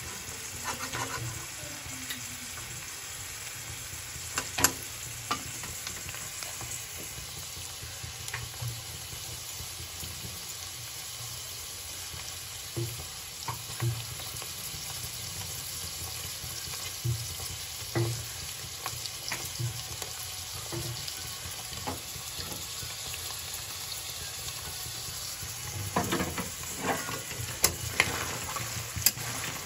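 Paneer cubes sizzling in oil in a kadai: a steady frying hiss. A metal spatula clicks and scrapes against the pan now and then, more often near the end.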